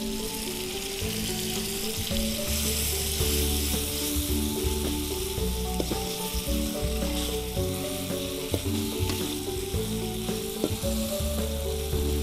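Red chilli spice paste sizzling in a steel wok while a metal spatula stirs and scrapes it, with scattered clinks of the spatula against the pan. Soft background music with a steady melody and bass runs underneath.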